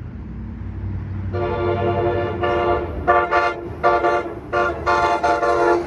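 Amtrak San Joaquin passenger train approaching with a low rumble that grows louder, then the leading cab car's horn sounding a chord in a series of long and short blasts from about a second in.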